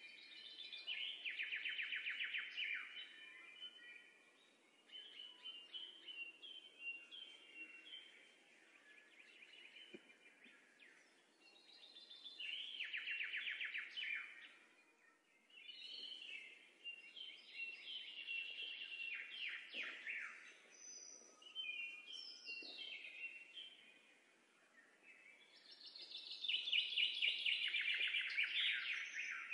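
Birds singing in rapid trilled phrases that come every few seconds with short pauses between, the loudest phrase near the end.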